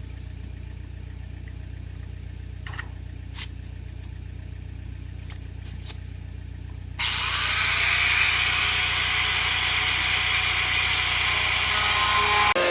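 A steady low motor hum; about seven seconds in, a power tool starts up, loud and harsh, with a whine that rises slightly in pitch.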